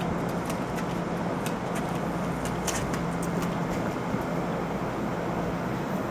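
Steady rumble and hum from an NJ Transit Multilevel passenger train on the far track, with a constant low tone and scattered faint high clicks.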